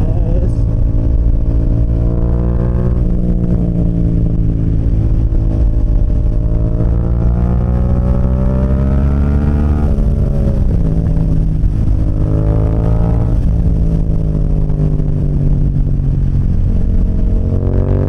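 Motorcycle engine running under way, its pitch rising and falling with the throttle: a long climb to about ten seconds in, a sudden drop, then shorter rises.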